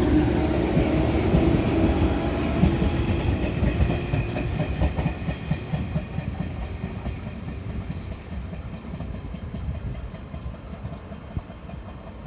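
A JR 113-series electric multiple unit pulls away from the station, its wheels clattering rhythmically over the rail joints. The sound grows steadily quieter as the train moves off into the distance.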